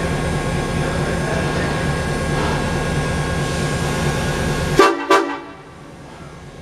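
A train running with a steady rumble, then two short toots of the train's horn close together almost five seconds in, after which the rumble drops away abruptly.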